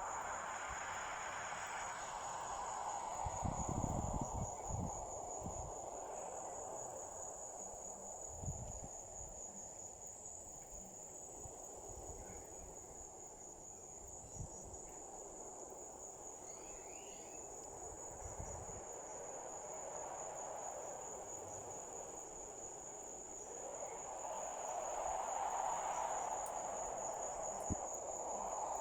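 Crickets trilling in a steady, continuous high-pitched tone, over a lower hiss that swells at the start and again in the last few seconds. A few low thumps come about three to five seconds in.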